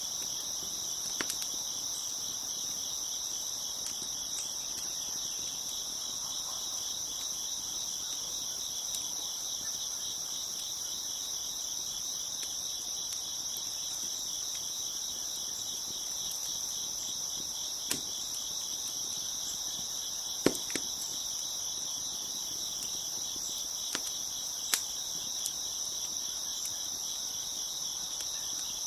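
Crickets chirping in a steady, dense high-pitched chorus. A few sharp pops from a crackling wood fire are scattered through it, the loudest about two-thirds of the way in.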